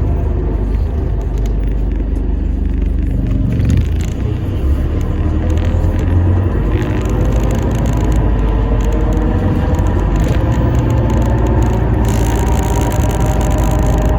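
Enviro400 MMC hybrid double-decker bus under way, heard from inside: a steady low drivetrain and road rumble with faint whines that slowly glide up and down in pitch.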